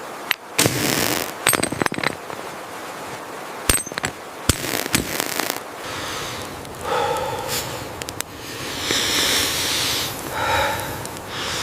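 A run of sharp cracks and pops for about the first six seconds, then a rushing noise that swells and fades several times.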